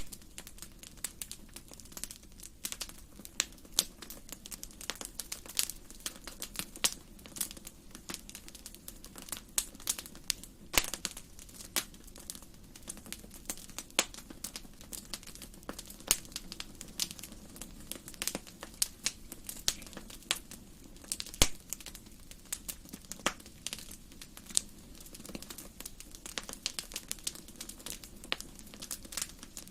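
Wood fire burning in a fireplace, crackling with irregular sharp pops over a low steady hiss of the flames; one louder pop about two-thirds of the way through.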